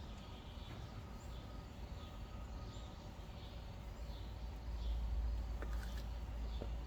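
A bird chirping over and over, short high notes about twice a second. Underneath is a low rumble that gets louder about halfway through, with a few faint clicks near the end.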